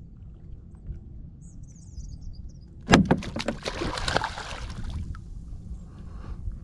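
Low wind rumble on the microphone with a faint bird chirping, then about three seconds in a sudden cluster of loud knocks followed by about two seconds of rushing, splashing-type noise around the kayak.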